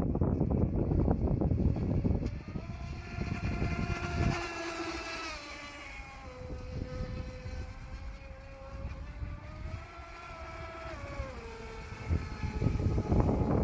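RC model boat's brushless electric motor whining, its pitch dipping, rising and falling again as the throttle changes. Gusty wind noise on the microphone comes in at the start and end.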